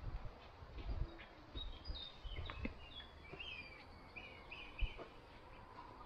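Small birds chirping and calling in quick short phrases through the middle few seconds, over a series of dull low thumps, the strongest one near the end.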